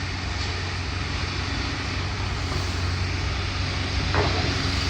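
Heavy demolition machinery, such as an excavator's diesel engine, running steadily with a low hum. A short high squeak comes near the end.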